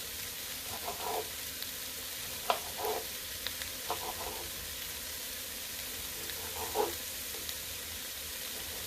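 Chicken legs and sautéed vegetables sizzling steadily as they fry in a pot, with a few scattered light knocks.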